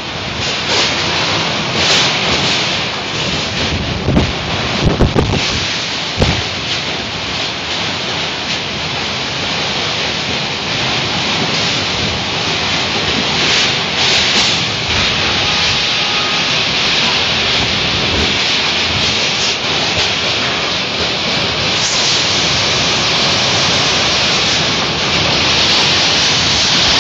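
Heavy rain and wind of a violent thunderstorm, a dense steady hiss, with a few low gusts buffeting the microphone about four to six seconds in.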